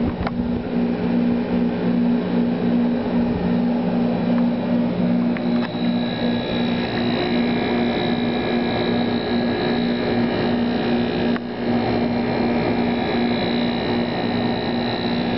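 1989 Friedrich Challenger 8000 BTU window air conditioner running steadily: the fan blows and the compressor hums. It runs smoothly, with the compressor pretty quiet. A fainter high whine joins in about six seconds in.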